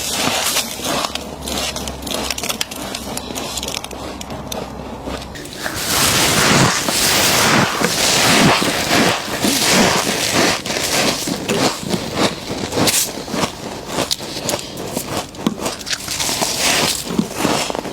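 Frost being bitten and chewed, with crisp, irregular crunching and crackling. The crunches get louder about five seconds in, while a low hum under the first few seconds stops.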